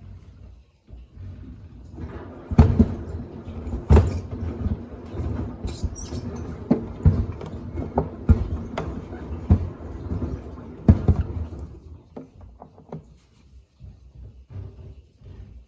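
Samsung front-loading washer-dryer drum turning with sneakers inside, the shoes thudding irregularly against the drum over a low rumble. The thudding lasts about ten seconds, then the drum slows to lighter occasional knocks.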